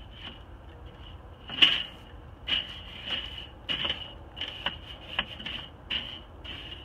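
Metal clinks and knocks from handling a charcoal grill, about a dozen irregular strikes, each with a short high ringing; the loudest comes about a second and a half in.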